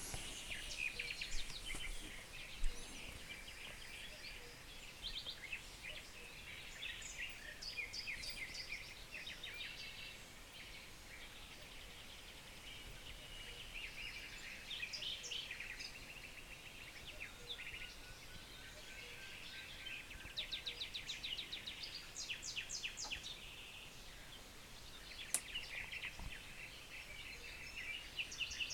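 Several wild songbirds singing at once: a mix of short chirps, whistled phrases and fast trills, with bursts of rapid trills about two-thirds of the way through and again near the end.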